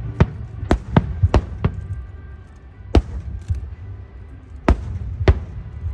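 Aerial fireworks shells bursting in irregular succession over a continuous low rumble: about eight sharp bangs, five close together in the first two seconds, then three more spaced out.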